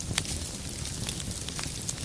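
Wood fire crackling: scattered sharp pops and snaps over a steady low rumble of the flames, with one louder pop just after the start.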